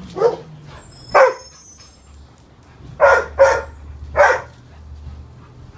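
A dog barking: five short, sharp barks, two of them in quick succession about three seconds in, over a low steady hum.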